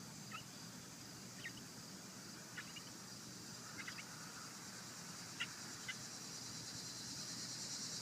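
Faint steady chirring of crickets that grows a little louder near the end, with a handful of short, high chirps scattered through it.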